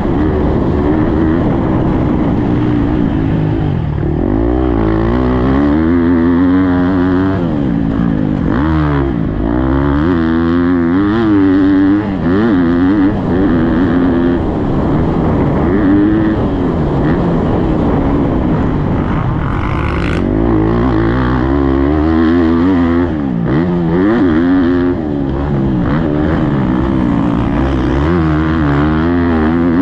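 Husqvarna motocross bike engine being ridden hard around a dirt track, its pitch rising and falling repeatedly as the rider revs out, shifts and backs off for jumps and corners.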